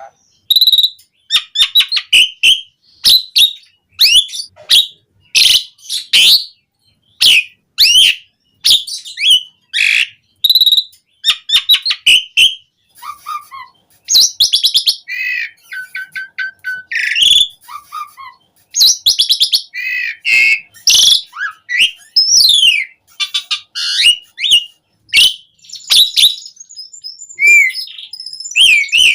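Javan pied starling (jalak suren) singing energetically: a long string of loud, varied whistles, chirps and harsh rasping notes in short phrases with brief gaps, filled out with other birds' notes as mimicry.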